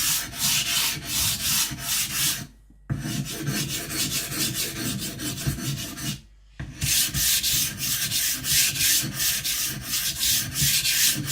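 Steel kiridashi blade scraping back and forth on a wet whetstone under heavy pressure, about two strokes a second. The strokes stop briefly twice, a little over two seconds in and again about six seconds in.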